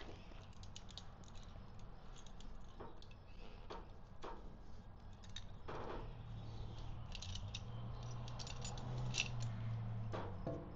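Scattered small metallic clicks and clinks of hand tools and screws while parts are taken off a motorcycle fuel tank. A faint low hum joins from about the middle to near the end.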